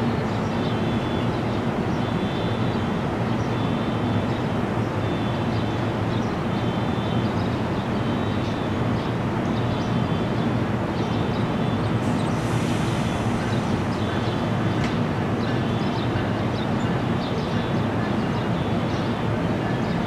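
NJ Transit bi-level commuter train standing at the platform, its equipment giving a steady mechanical hum. A faint high chirp repeats about once a second, and a brief hiss comes about twelve seconds in.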